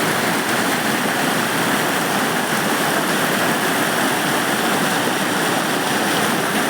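Swollen floodwater rushing in a loud, steady torrent.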